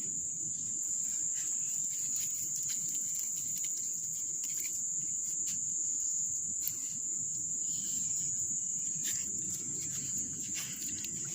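Insects chirring in one steady high-pitched drone, over faint low noise and scattered small clicks.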